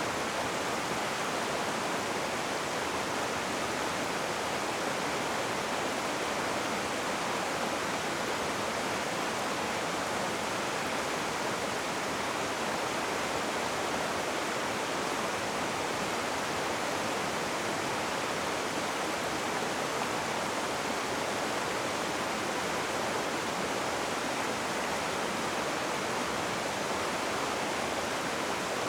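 Rushing river water, a steady unbroken hiss and rush with no changes.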